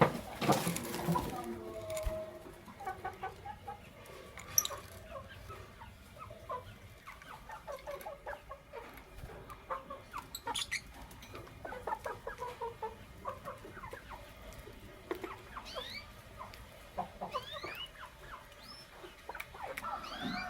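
Lovebirds chattering: a busy run of short chirps and clicking calls, loudest in the first second or so, with a few quick rising squeaks near the end.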